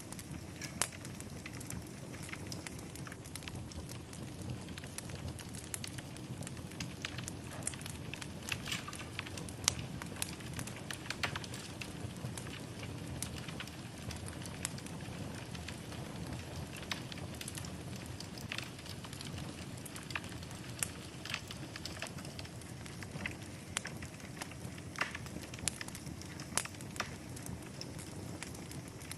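Wood fire burning steadily with irregular sharp crackles and pops over a low, even rush of flames.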